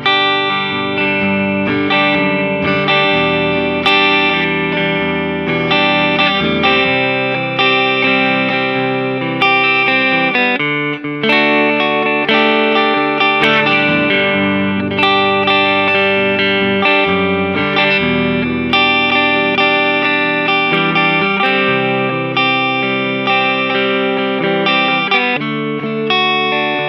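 2011 Gibson ES-335 semi-hollow electric guitar strumming chords with a clean tone on its neck (rhythm) Burstbucker humbucker, a fresh strum every second or so with the chords ringing on between.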